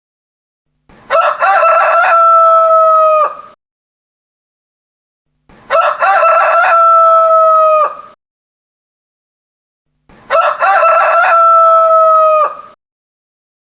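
Rooster crowing: three long cock-a-doodle-doo crows, each about two and a half seconds, spaced evenly with silence between them.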